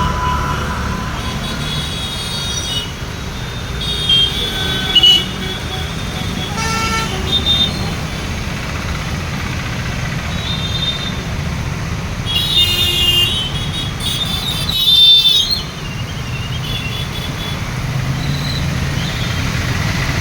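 Steady low rumble of road traffic with several short, high-pitched toots over it, the loudest about three-quarters of the way through.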